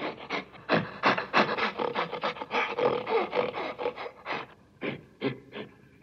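Gorilla chewing and stripping a leafy plant stem: rapid, irregular crunching and crackling that thins to a few separate crunches over the last second and a half.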